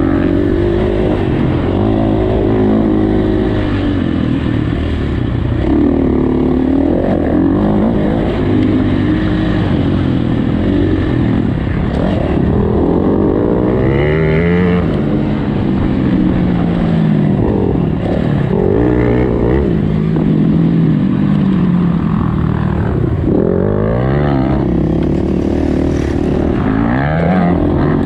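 Motocross dirt bike engine being ridden hard, its pitch repeatedly climbing and dropping as the throttle is opened and closed and it shifts through the gears.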